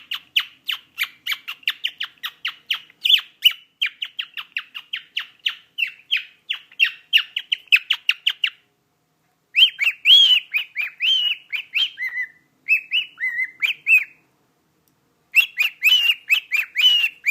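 Cockatiel chirping in fast strings of short, high notes, about four or five a second, breaking about halfway into a run of whistled notes that bend up and down, then back to rapid chirps near the end.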